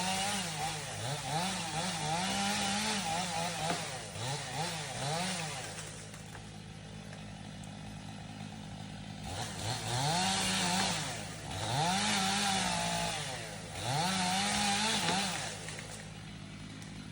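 Chainsaw engine revving up and down in repeated bursts, dropping back to a quieter, steadier stretch in the middle before three more revs.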